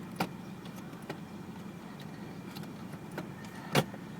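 Steady low hum of the 1999 Mitsubishi Lancer GLXi's engine idling, heard inside the cabin, with a few light clicks scattered through and a louder click near the end.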